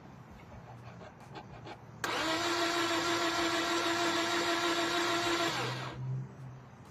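2006 Toyota Corolla's starter motor cranking the engine with a steady whine for about three and a half seconds, starting abruptly about two seconds in, without the engine catching: the head gasket is blown and the engine has lost compression.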